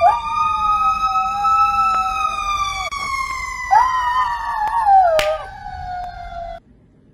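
A siren wailing, rising and then slowly falling in pitch, with a dog howling along in wavering tones beneath it; the sound cuts off suddenly near the end.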